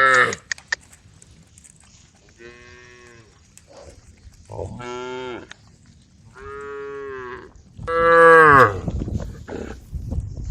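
Several cows mooing: the end of one call at the start, then four separate moos of about a second each, the last the loudest. A low rumble follows near the end.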